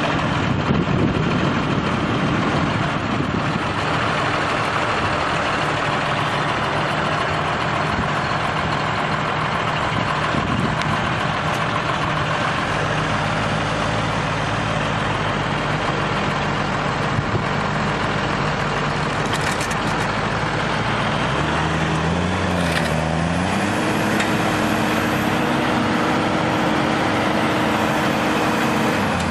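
Heavy vehicle engine running steadily. About three-quarters of the way through the sound changes: the engine note dips and rises, then holds a steady higher drone with a faint high whine over it.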